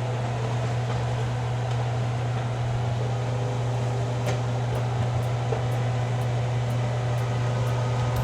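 Steady low mechanical hum of a kitchen fan running, with a few faint light clicks over it.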